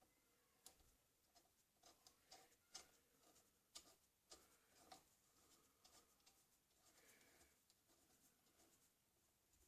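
Very faint, irregular small clicks and light scrapes of small metal wheellock lock parts being handled and fitted, thickest in the first half.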